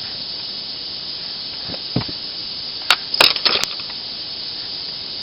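Steady hiss with a few light clicks and taps from handling the disassembled nail gun's small parts: one click about two seconds in, another just before three seconds, then a short quick run of taps.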